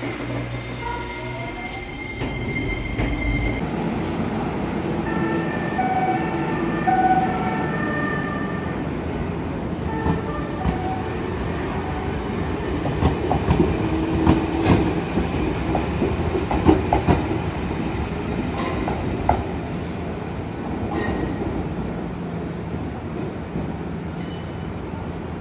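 Shizuoka Railway electric train running along the track, with a steady rumble; short stepped electric tones sound during the first ten seconds, then sharp clacks over the rail joints come through in the middle.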